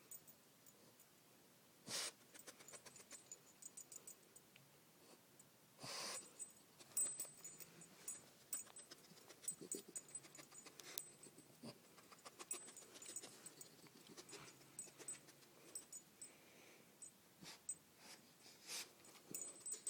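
A dog sniffing intently at close range: quick runs of rapid sniffs broken by a few longer, louder breaths, including one about 6 seconds in.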